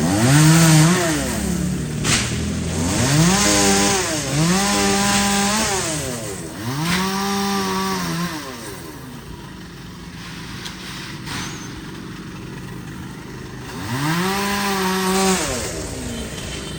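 Two-stroke chainsaw revved up to full speed five times, each burst held for about a second and then let back down, with quieter running between the third and last bursts.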